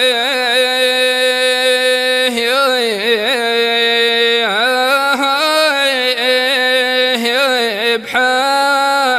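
A solo voice singing al-wanna, a traditional Omani sung poetry style, with no instruments. It holds long notes with wavering melismatic turns, and the pitch dips a few times.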